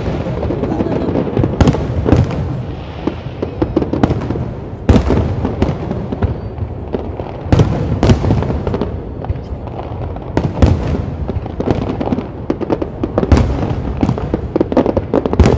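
Aerial fireworks display: shell after shell bursting in quick succession, sharp booms over a continuous rumble of overlapping explosions.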